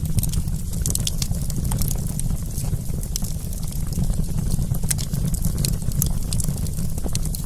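Wood campfire crackling: many small sharp pops and snaps at irregular intervals over a steady low rumble of burning.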